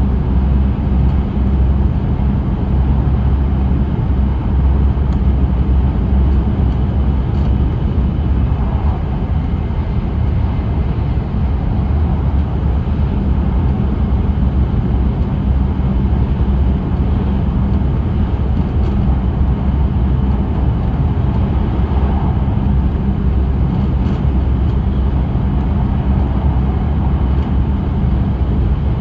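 Steady low rumble and road-like noise of an E5 series Shinkansen running on the line, heard from inside the car.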